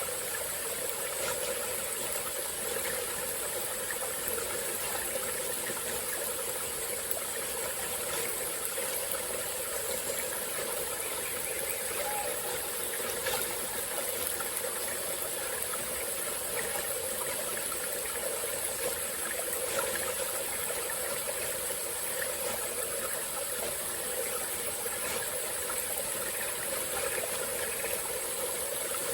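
Small tropical-forest stream flowing steadily, an even rush and trickle of water that holds constant throughout.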